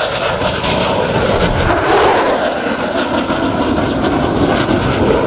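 Loud jet noise from Blue Angels F/A-18 Super Hornet jets in flight, swelling slightly about two seconds in.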